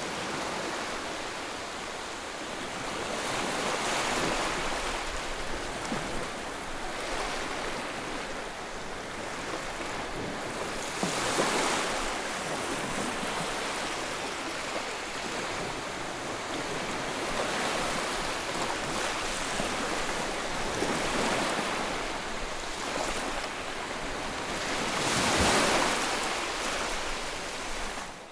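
Ocean surf: a steady wash of waves, each swelling and breaking then easing back every several seconds, with the biggest swell near the end.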